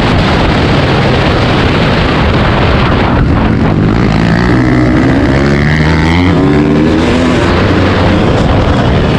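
Dirt bike engine running, its pitch rising and falling with the throttle, under a loud steady rushing noise.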